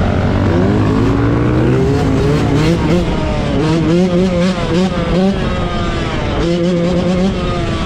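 Off-road vehicle engines revving: a rising rev through the first two seconds, then a series of quick throttle blips, the pitch jumping up and dropping back again and again.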